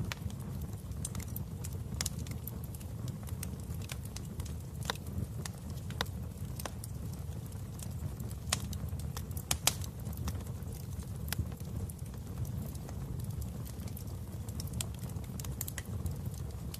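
Fireplace wood fire burning: a steady low rumble of flames with sharp pops and crackles at irregular intervals.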